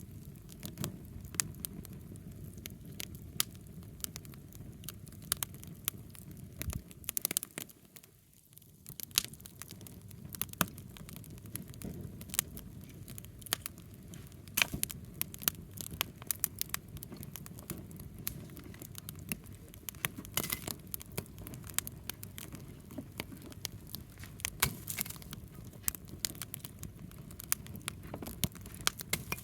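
Wood campfire crackling: many sharp irregular pops and snaps over a steady low rush of burning, with a brief lull about eight seconds in.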